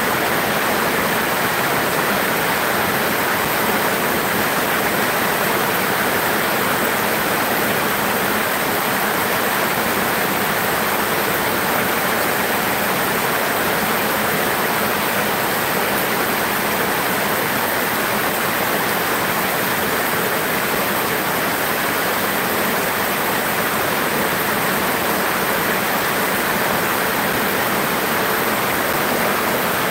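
Heavy rain pouring down steadily on corrugated roofs and a yard, a dense unbroken hiss of falling water.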